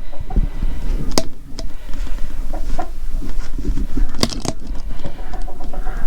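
Chickens clucking now and then while someone cleans out a chicken coop: sharp knocks and clatter from the work, three of them loudest, over a steady low rumble.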